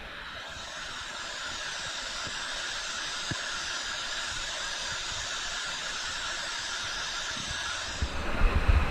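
Steady rush of water falling and running down a canyon river. Low rumbling buffets come in near the end.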